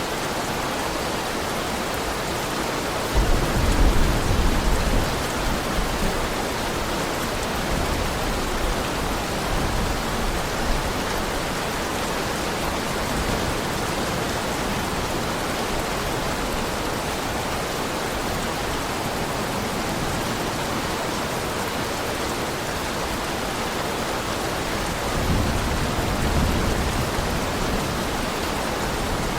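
Heavy rain falling steadily, with a low rumble of thunder about three seconds in and another near the end.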